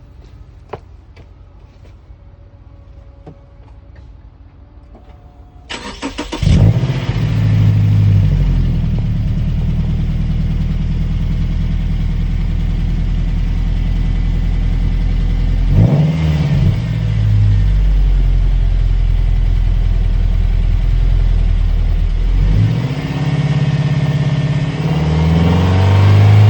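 Subaru Outback boxer engine breathing through a Nameless dual-chamber exhaust with a 5-inch muffler. After a few faint clicks it starts about six seconds in with a short flare and settles to idle. It is blipped once around the middle and revved again near the end.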